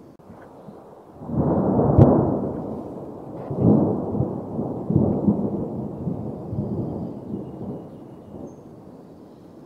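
Muffled rubbing and bumping on the camera's microphone as a German shepherd puppy squirms and nuzzles against it. The noise comes in uneven swells starting about a second in, with a sharp click about two seconds in.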